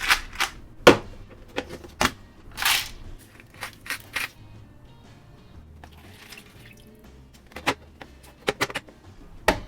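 Handling of a plastic microwave pasta cooker: a series of sharp clicks and knocks with a few short rushing sounds, over quiet background music.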